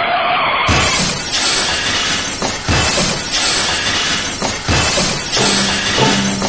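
Car crash sounds: glass shattering and metal breaking, with repeated impacts. Music with steady low notes comes in near the end.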